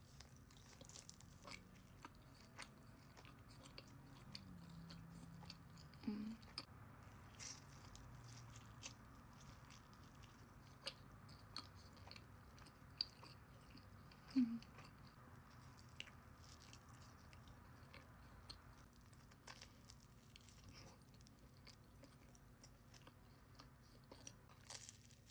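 Faint eating sounds: a person biting and chewing food close to the microphone, with scattered small crunches and clicks and two louder short sounds about six and fourteen seconds in.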